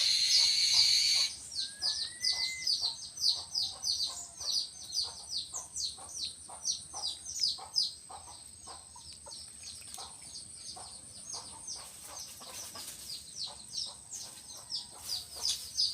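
Birds chirping: a rapid string of short, high, falling chirps, several a second, after a loud rush of noise in about the first second.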